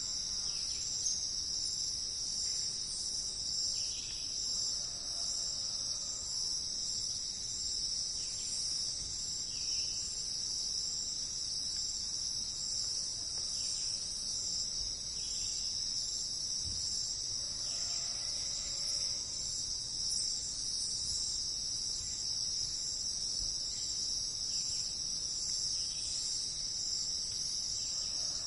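Steady, high-pitched insect chorus, like crickets calling without pause, with a couple of faint lower calls beneath it.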